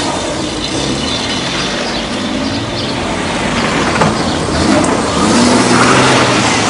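Car engine running as a car drives in and pulls up, its low pitch drifting slightly up and down.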